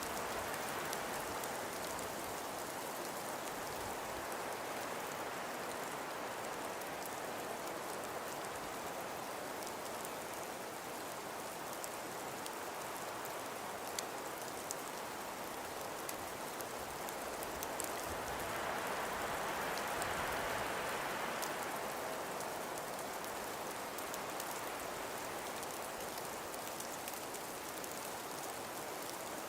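Wind and blowing snow in a steady hiss, with scattered faint ticks of snow grains striking. The wind swells about two-thirds of the way through, then eases back.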